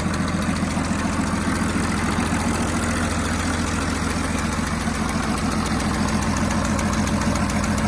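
Cummins 6BT 5.9-litre inline-six turbodiesel running steadily, with a fast, even diesel clatter over a low hum.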